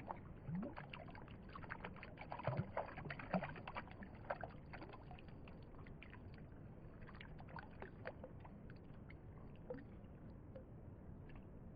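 Running creek water, with a quick, irregular run of splashes and clicks over the first few seconds as a hooked steelhead is brought in, thinning out later.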